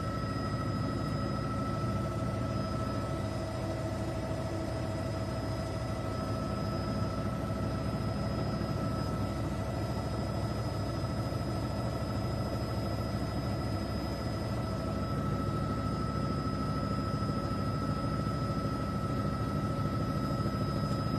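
News helicopter's engine and rotor running steadily, a constant rumble with a fixed high whine over it.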